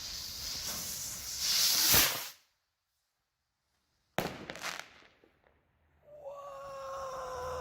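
Screamin Eagle firework rocket hissing as it burns, swelling to a loud rushing whoosh about two seconds in, then cutting off abruptly. About two seconds later there is a sharp bang with a short crackle, then a steady, slowly falling tone near the end.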